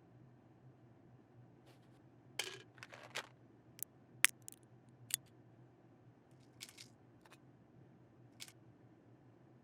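A quiet scatter of small handling sounds: a few short rustles, then sharp separate clicks, the loudest a little after four seconds in, over a steady low hum.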